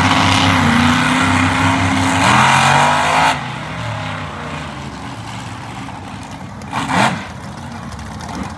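Monster truck engine running loud with a steady engine tone, then dropping off suddenly about three seconds in, leaving lower engine and arena noise with a short burst near the end.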